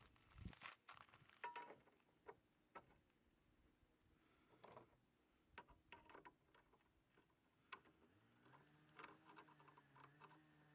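Faint, scattered clicks and light knocks, with a low hum that rises in about eight seconds in and holds steady.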